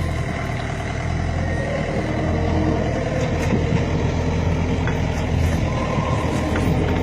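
A truck's diesel engine running steadily at idle, with a few light knocks over it.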